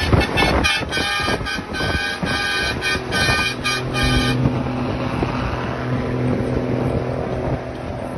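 Truck horn honked in a quick run of short blasts for about four seconds, then a truck engine running with a steady low drone.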